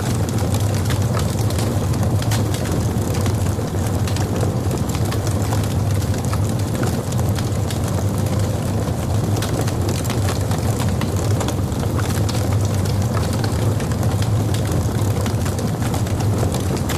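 Log fire burning in a fireplace: a steady low rumble of flames with frequent small crackles and pops scattered throughout.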